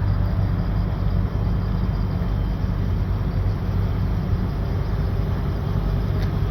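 A car engine running steadily at idle, a constant low pitched hum with no revving.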